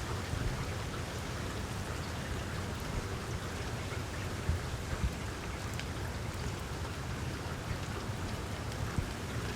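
Small wood fire in a fireplace crackling: a steady soft hiss with scattered pops and snaps, a few louder ones around the middle and near the end.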